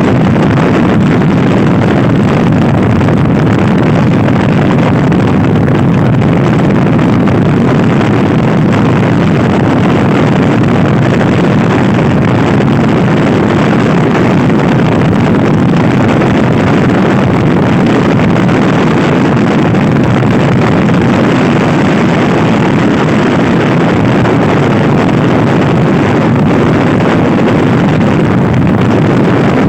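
Loud, steady wind buffeting on the microphone of a Honda Scoopy i scooter ridden at speed, drowning out most of the engine.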